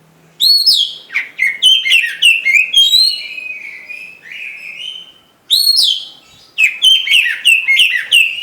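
Oriental magpie-robin (kacer) singing a loud, rapid run of varied whistled and chirping notes, with a short pause about five seconds in before it sings again.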